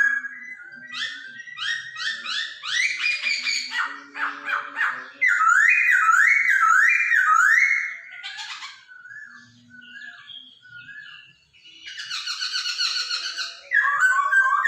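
Poksay Hongkong songbird singing loud, varied whistled phrases: runs of repeated slurred notes that sweep up and down, each run a few notes a second. A quieter stretch of short, scattered notes comes in the middle.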